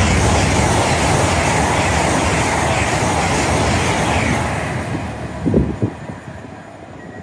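GWR Intercity Express Train running through the station at speed: a loud, steady rush of wheels and air that fades away about four and a half seconds in. A brief heavy low thump follows about a second later.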